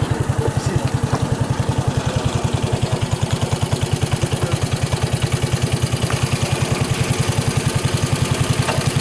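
An engine running steadily with a fast, even low throb, about eight or nine beats a second.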